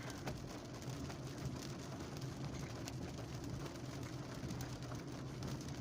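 Rain and traffic: a steady low hum of vehicles with a faint, even hiss of rain and scattered light ticks of drops.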